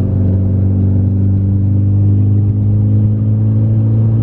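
A car engine running close by at a steady, held pitch, loud and even throughout.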